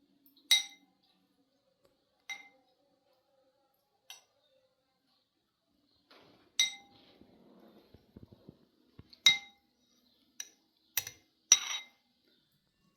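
Cutlery clinking against dishes, about eight separate ringing clinks at irregular intervals, a few of them louder than the rest.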